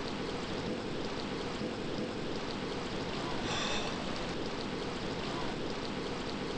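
Steady rush of a shallow canyon creek's flowing water.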